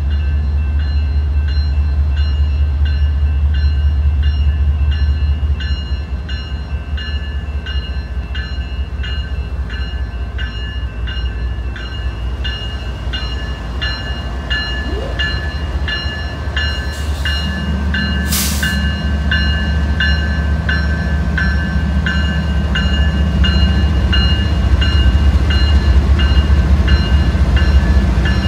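Grade-crossing warning bells dinging steadily, about two strokes a second, over the low rumble of BNSF diesel locomotives, a GE ES44C4 leading a Dash 9-44CW. A short loud burst of noise comes about two-thirds of the way through, then a deeper engine note joins and the sound grows as the lead units draw level.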